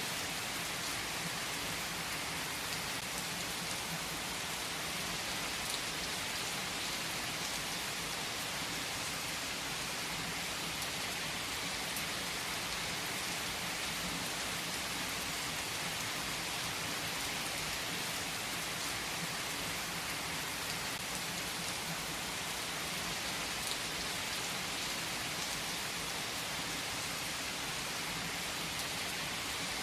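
Steady rain falling on a surface, an even hiss of many drops with no change in strength.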